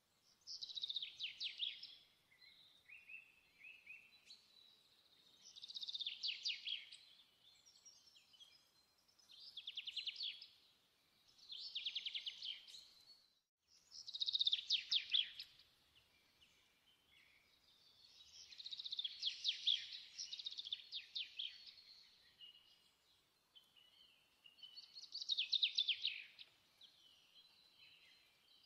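A songbird singing: rapid trilled phrases repeated every few seconds, with quieter twitters between them.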